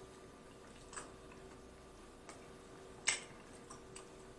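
Close-miked chewing of a mouthful of supreme pizza: quiet, with a few scattered soft wet mouth clicks, the loudest about three seconds in, over a faint steady hum.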